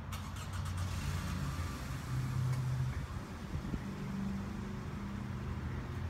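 A vehicle engine running at low revs, a steady low hum whose pitch shifts up a couple of times.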